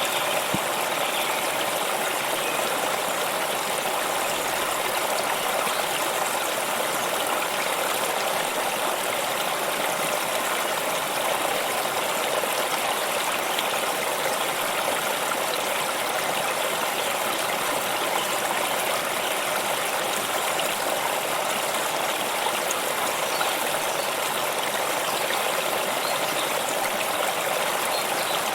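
A stream of water running and splashing steadily, an even rushing with no change.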